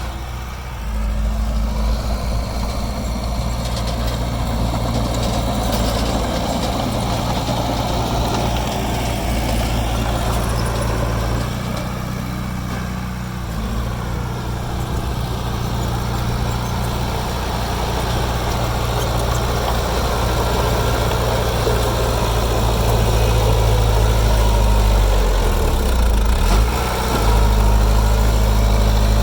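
Diesel engine of heavy earthmoving machinery running steadily with a low hum. Its note shifts about twelve seconds in and again near the end.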